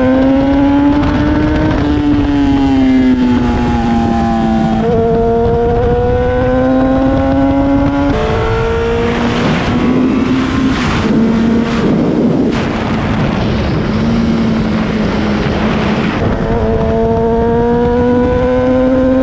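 Honda CBR954RR Fireblade's 954cc inline-four engine running through an aftermarket Yoshimura exhaust while the bike is ridden. Its pitch rises and falls repeatedly as the throttle is opened and closed. A rushing noise partly covers it around the middle.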